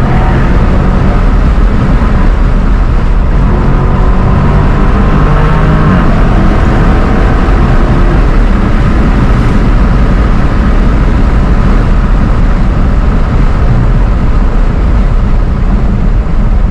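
Dodge Challenger Scat Pack's 6.4-litre HEMI V8 at full throttle in a hard acceleration pull, loud and continuous, its note climbing in pitch as the car gathers speed.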